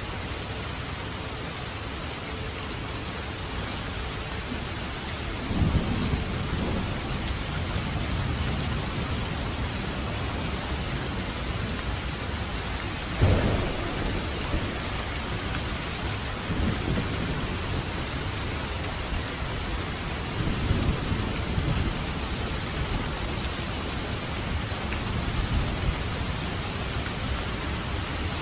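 Steady heavy rain on a roof, with several rolls of thunder rumbling through it and one sharper, louder thunderclap about halfway through.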